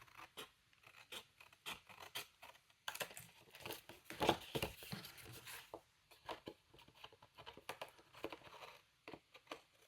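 Scissors snipping through paper in a run of short cuts, with paper rustling as it is handled; the busiest, loudest stretch is about three to six seconds in.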